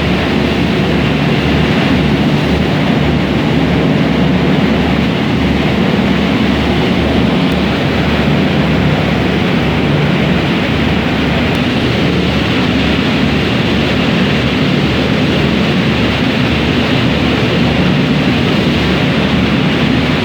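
Steady, loud drone of a high-speed passenger ferry under way: engine noise with an uneven low throb, mixed with the rush of water and wind.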